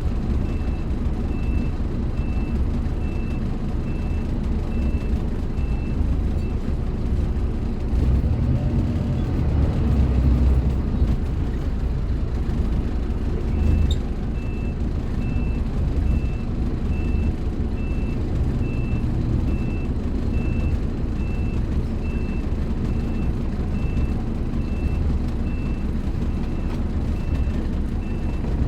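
Scania K310IB bus's diesel engine running with a deep, continuous rumble that grows louder about eight to eleven seconds in. A high electronic beep repeats about twice a second over it, stopping for several seconds about a quarter of the way through and then starting again.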